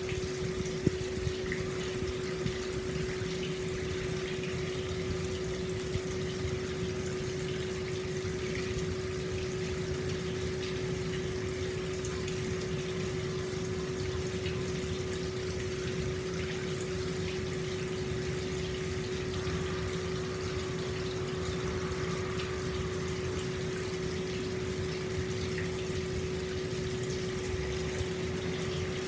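Hot spring water flowing out of the bath in a steady, continuous gush, with a constant low hum under the splashing.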